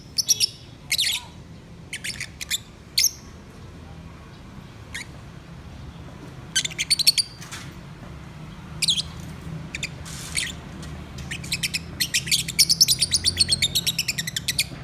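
Pet lovebirds chirping in short bursts of rapid, high chirps, with a longer fast run of chirping near the end.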